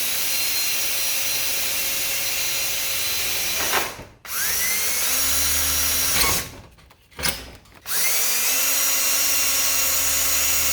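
Power drill boring screw holes through a garage door reinforcement bracket. It runs steadily, stops briefly twice, and spins back up with a rising whine each time.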